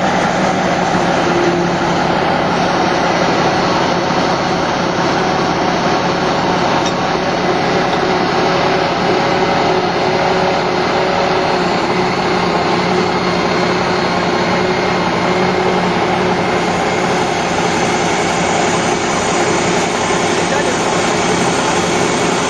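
Vehicle engine idling steadily, a constant mechanical drone with a few faint held tones and no sudden events.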